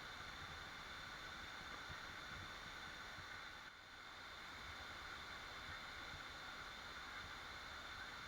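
Waterfall: a steady, low rush of falling water, dipping briefly a little before the middle.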